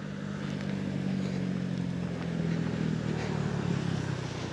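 Engine of a passing motor vehicle humming steadily, its pitch easing down slightly and fading near the end.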